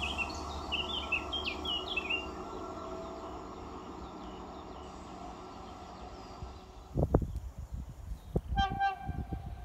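A diesel-hauled train moving away, its steady noise slowly fading over several seconds, with birds chirping in the first couple of seconds. From about seven seconds in, wind buffets the microphone in irregular gusts.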